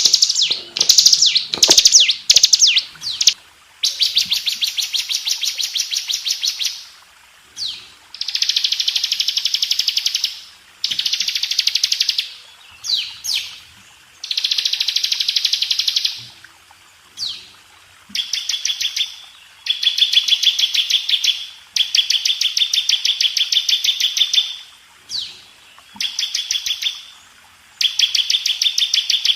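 Bar-winged prinia (ciblek) singing: quick, separate high notes at first, then rapid high trills in bursts of two to three seconds, with short sweeping notes in the gaps between them.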